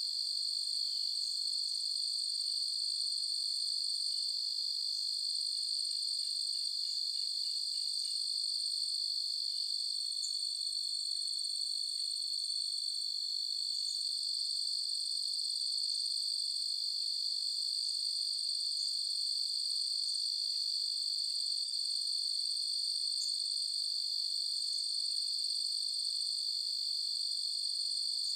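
Night chorus of crickets trilling steadily: a continuous, even, high-pitched ring.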